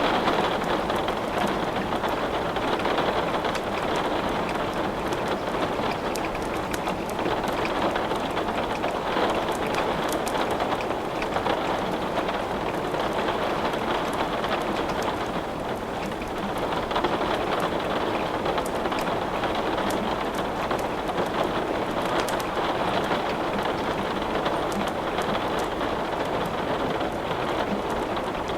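Steady rain with a wood fire crackling, many small sharp pops and ticks scattered through the even rush of the rain.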